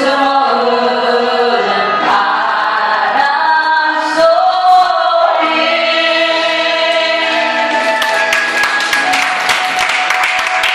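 Closing bars of a Korean ballad: sustained singing voices, choir-like, over the accompaniment. From about eight seconds in, a rapid patter of clapping joins the music.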